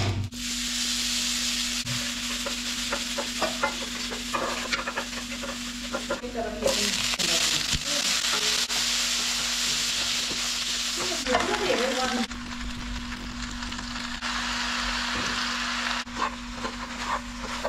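Food sizzling in hot oil in a wok while being stirred, with a wooden spatula scraping and tapping the pan. The sizzle breaks off briefly about six seconds in, comes back stronger, and eases off in the last few seconds.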